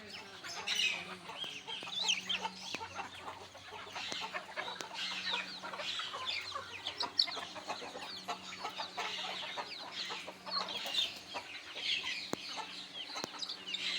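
Chickens clucking with many chicks cheeping in rapid, overlapping high peeps, over a faint low hum.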